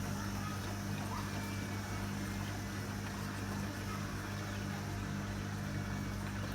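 Hotpoint WMA30 washing machine's motor and drum turning with an unbalanced load: a steady hum with a regular pulse about twice a second as the drum goes round off-balance.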